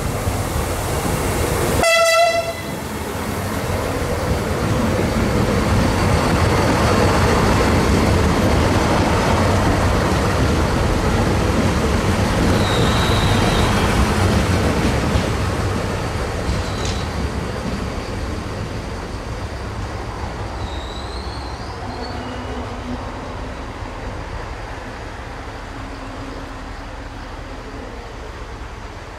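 Siemens Desiro VT642 diesel multiple unit giving one short horn note about two seconds in, then running in alongside the platform with a steady rumble of engine and wheels that swells as it passes and slowly fades as it slows to a stop. A brief high squeal comes midway as it brakes.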